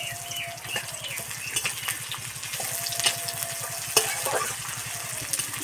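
Chopped onion sizzling as it hits hot mustard oil in a metal kadai, stirred with a metal spatula that scrapes and clicks against the pan, with one sharp clack about four seconds in.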